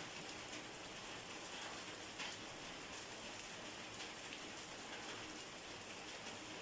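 Steady rain falling, with a few sharp drop-like clicks standing out.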